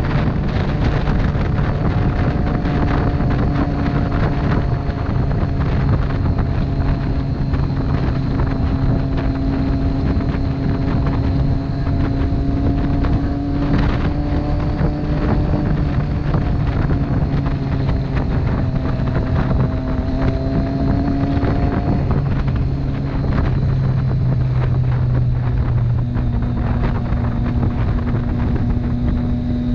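Motorcycle engine running steadily at road speed while riding, with wind rushing over the microphone. The engine note holds roughly level and shifts a little past the middle.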